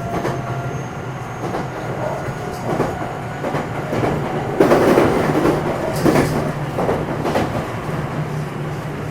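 Cabin running sound of a JR West 227 series electric train's motor car with Hitachi IGBT VVVF traction equipment: a steady motor hum under rolling rumble, with wheels clacking over rail joints. The rumble grows louder for a second or so about halfway through.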